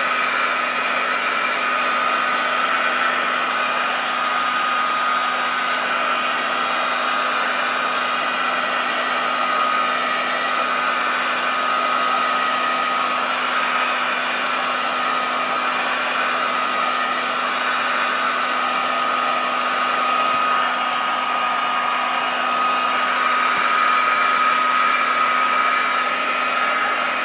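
Heat gun running steadily: a rush of blown air with a steady whine over a low hum, warming a warped pinball playfield plastic so it softens and lies flat.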